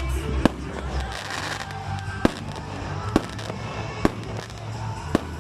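Fireworks going off: five sharp bangs, roughly a second apart, over background music.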